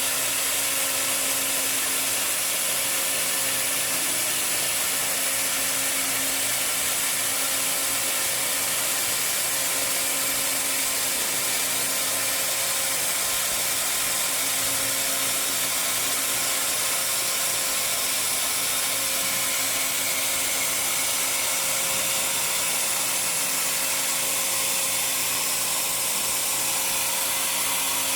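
Steady whirring hiss of laser welding machinery running, with a constant hum underneath and no change in pace.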